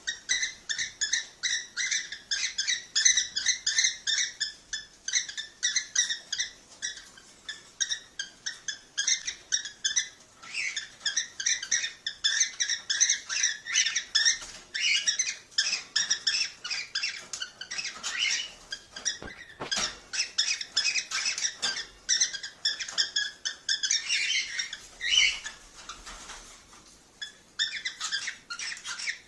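Cockatiels chattering in a fast, continuous stream of short high chirps, several a second, with a brief lull near the end.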